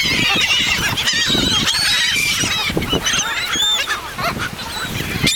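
Several gulls calling at once, a dense overlap of short, bending cries that carry on throughout.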